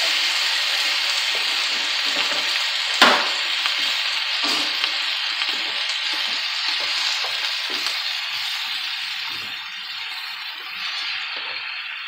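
Sausage, onions and potatoes sizzling in butter in a hot wok, with a wooden spatula scraping and stirring through them. The sizzle slowly dies down toward the end, and a sharp knock comes about three seconds in.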